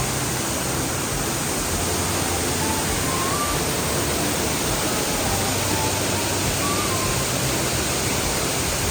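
Steady rushing of a waterfall, an even wash of falling-water noise.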